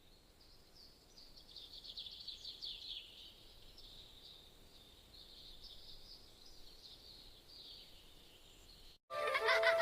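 Faint nature ambience of high, busy chirping that swells a little in the first few seconds. It cuts out about nine seconds in, and music with held chords starts suddenly.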